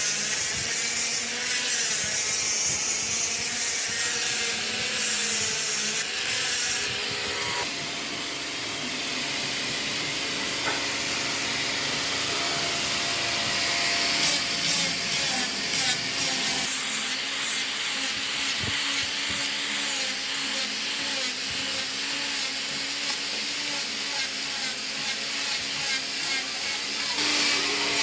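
Power tools working wood: a steady motor hum under rasping, rubbing cutting noise, changing in character about 7 and 17 seconds in and again near the end.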